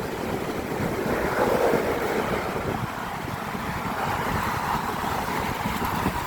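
Steady traffic noise from cars crossing a six-lane road bridge: a continuous wash of tyres and engines, swelling louder about a second and a half in as a vehicle passes close.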